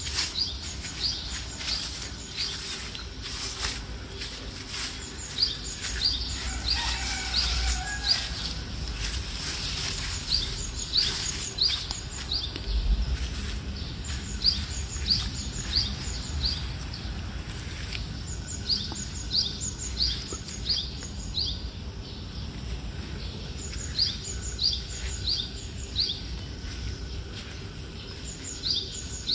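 Birds chirping in the early morning: one repeats short high notes in quick runs of several at a time, with fainter, thinner notes higher up. Scattered clicks and a low rumble from the camera being carried run underneath.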